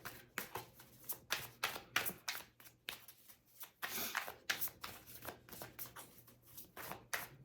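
A deck of tarot cards being shuffled by hand: a quick, irregular run of flicking and tapping cards, with a softer sliding rustle about four seconds in.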